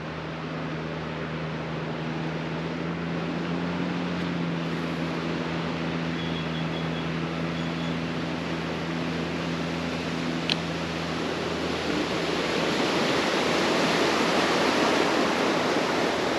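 Riding noise from an Ausom L2 Max dual-motor electric scooter on a paved path: wind rushing past and tyre noise, with a steady low hum that stops about twelve seconds in. The rushing grows louder toward the end.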